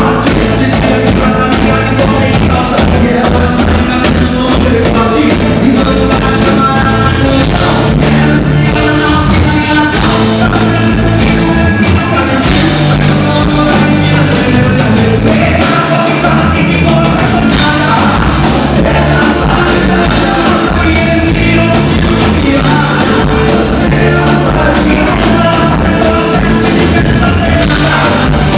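Live band playing loud dance music with a singer, recorded from the floor, the sound heavy and compressed.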